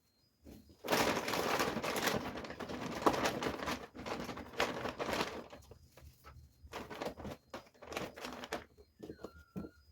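Plastic bags and packaging crinkling and rustling while vegetables are handled, densest in the first few seconds and then in short scattered bursts with small clicks. A brief high chirp sounds near the end.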